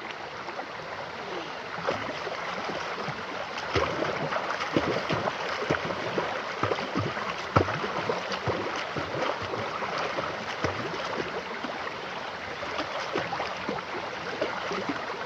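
Mountain river running over stones: a steady rushing with many small gurgles and splashes.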